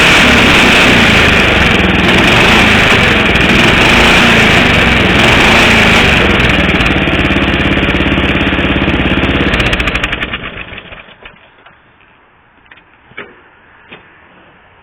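Riding lawn mower engine running loudly through a homemade exhaust pipe made from a bent weed eater shaft, a note the owner likens to a Harley. About ten seconds in it is shut off, its beat slowing into separate pulses as it dies away, and a couple of faint knocks follow.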